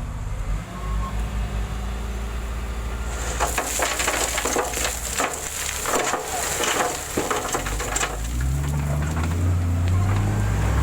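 Heavy-equipment diesel engine running, with a few seconds of gravel crunching and crackling in the middle. Near the end the engine note changes and grows louder.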